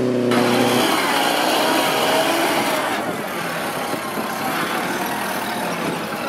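1928 Ford Model A's four-cylinder side-valve engine pulling under load across mud. It starts just after a brief steady, high-revving engine note from another vintage car near the start.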